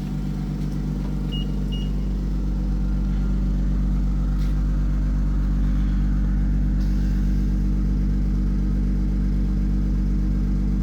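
2025 BMW X3 M50's turbocharged 3.0-litre straight-six idling steadily shortly after a cold start, getting slightly louder over the first few seconds.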